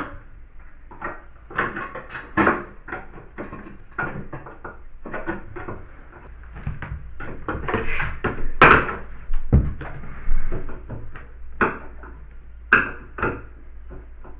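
Irregular clunks, clicks and knocks of tools and hardware being handled during a bathtub tap repair, with a steady low hum starting about halfway.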